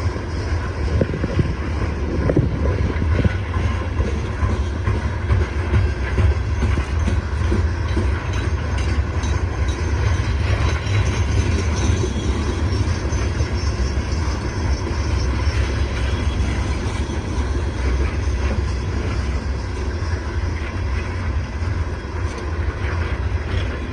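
CSX coal train's hopper cars rolling past, a steady loud rumble of wheels on rail.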